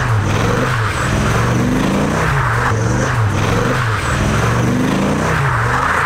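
1994 Dodge Viper's 8.0-litre V10 revving up and falling back about once a second, with the rear tyres spinning and squealing.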